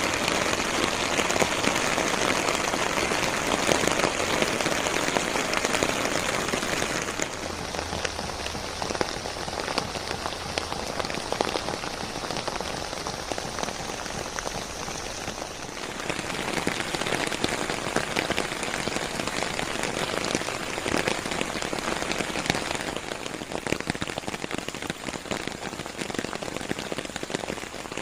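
Rain falling on fern leaves: a dense, steady hiss of many small drop hits. It is heaviest at first, eases after about seven seconds, then picks up again for a while past the halfway point.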